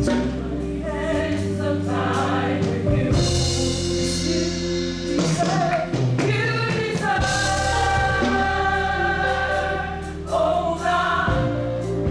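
Live gospel music: a choir singing held notes over a band with a steady bass line and drums.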